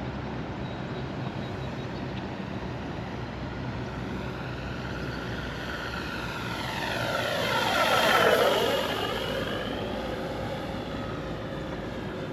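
Electric RC FlightLine Corsair warbird flying a low pass, its propeller and onboard engine-sound speakers running steadily. The sound swells to its loudest about two-thirds of the way in as it goes past, with a swooping sweep in tone, then fades back.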